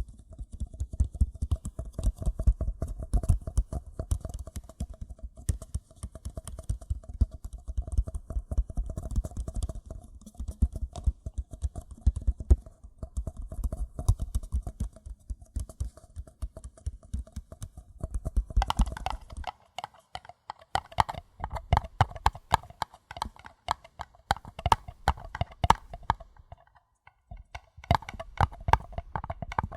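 Fingers tapping rapidly on paper cups. At first the taps are low and dull with a hollow ring. About two-thirds of the way through they switch to a lighter, brighter tapping, pause briefly, then go on.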